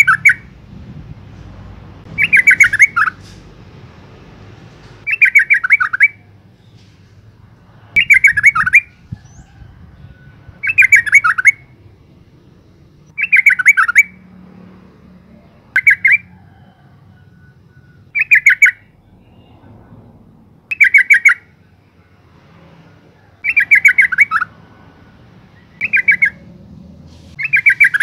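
Yellow-vented bulbul (Pycnonotus goiavier) giving a loud, rapid chattering call, a quick run of notes about a second long, repeated roughly every two and a half seconds. The call is that of a female calling to a male.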